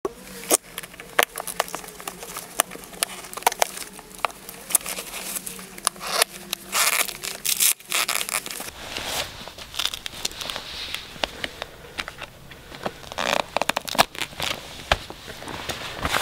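Close crackling, crunching and scraping handling noises, broken by many sharp clicks at irregular intervals.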